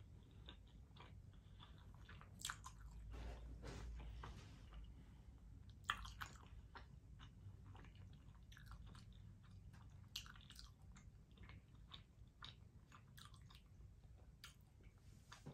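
Faint chewing of soft macaroni and cheese with the mouth closed: scattered wet mouth smacks and clicks, the sharpest one about six seconds in.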